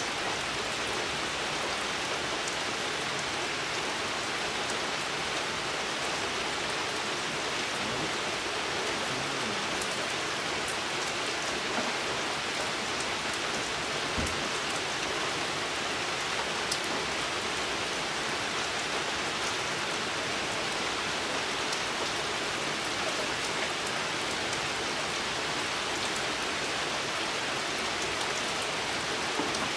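Steady rain falling on foliage and ground: an even hiss, with an occasional single drop ticking a little louder.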